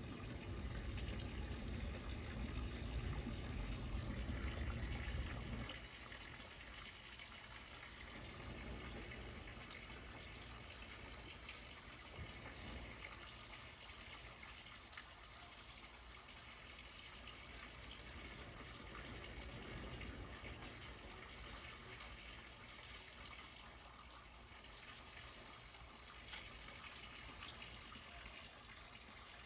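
Water lapping and trickling against a boat's side: louder with a low rumble for the first five or six seconds, then a quieter steady wash.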